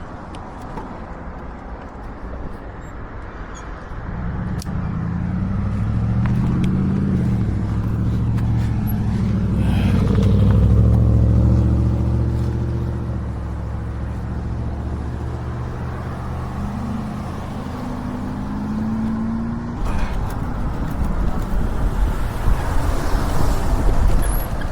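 A car engine running close by at an intersection grows louder from about four seconds in, its pitch shifting as it moves off, then fades. A low rushing rumble takes over near the end.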